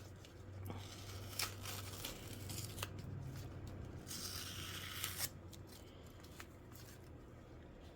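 Packing material of a mail-order orchid shipment being handled and torn open: scattered sharp clicks and crackles, with a longer rustle about four seconds in.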